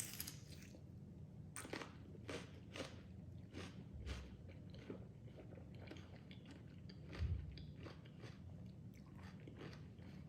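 Close-up crunchy chewing of a mouthful of spicy salmon salad with raw onion and stink beans, about two crunches a second. There is a low thump about seven seconds in.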